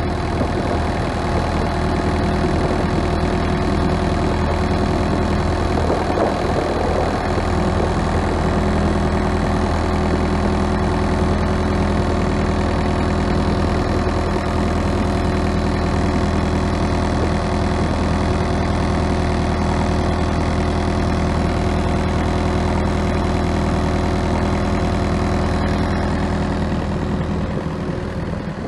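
Thermo King SLX 400 trailer refrigeration unit running steadily on its diesel engine, a constant idling drone with no change in speed.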